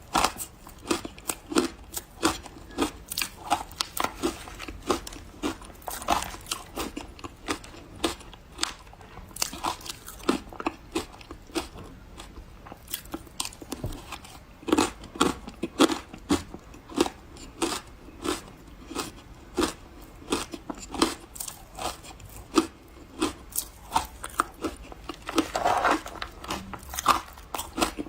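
Close-up crunching and chewing of refrozen powdery freezer ice in big bites, a steady run of irregular crisp crunches, several a second.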